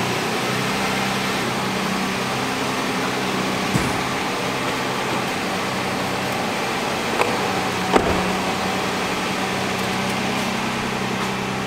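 A vehicle engine running steadily, heard as an even hum, with a few short clicks or knocks about 4, 7 and 8 seconds in.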